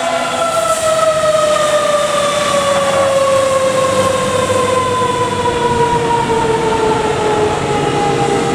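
Fire truck's mechanical siren winding down, its pitch falling slowly and smoothly the whole time, over the noise of the moving truck.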